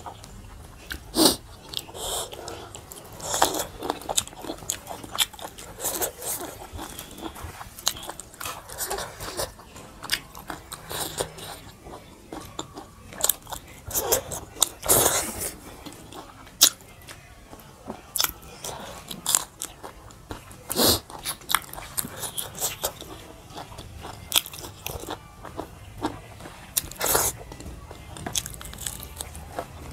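Two people eating with their hands close to the microphone: chewing and mouth sounds with irregular sharp clicks and crunches scattered throughout.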